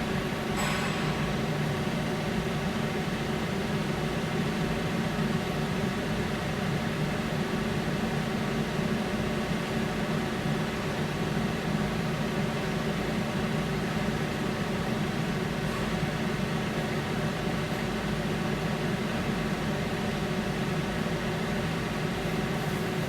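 Steady low mechanical hum that holds an even level throughout, as heard from inside a vehicle on the ferry's car deck, with a faint click just under a second in.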